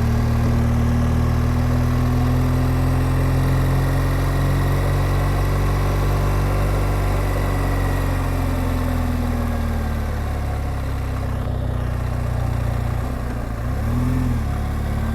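BMW R1200GSA motorcycle's flat-twin boxer engine running at steady revs while pulling up a steep climb. The engine note drifts gently, then briefly dips and picks up again near the end.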